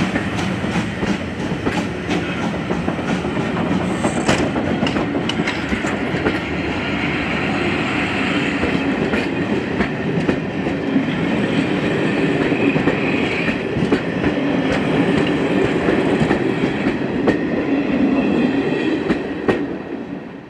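Steam-hauled passenger train, headed by GWR Manor class 7812, running past at speed. Its wheels click steadily over the rail joints, with a quick run of clicks over the first few seconds.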